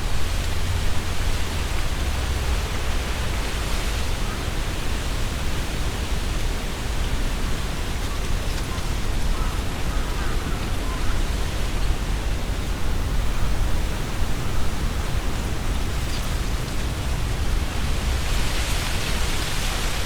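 Strong wind blowing through tree leaves, a continuous rustling hiss over a low rumble of wind buffeting the microphone. A stronger gust swells the rustling near the end.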